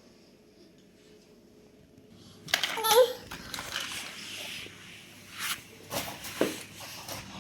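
A toddler vocalising. About two and a half seconds in comes a loud, breathy burst with a short rising squeal, followed by several shorter noisy bursts.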